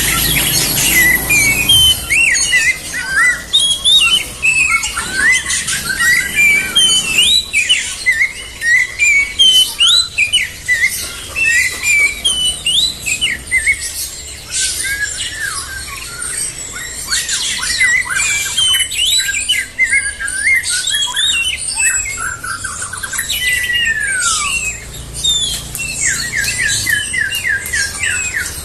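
Songbird singing a long, fast, varied run of chirps and whistles, with a falling whistle near the end and then a quick even trill.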